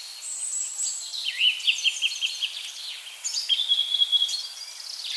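Several small birds singing over one another: quick chirps and trills, with a run of repeated notes about a second in and a steady high whistle held for about a second past the middle.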